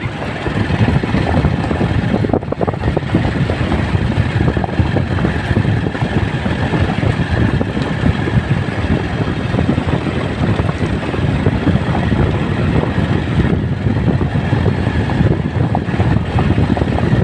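Steady noise of riding on a motorcycle: wind rushing over the microphone mixed with engine and road noise, loud and unbroken.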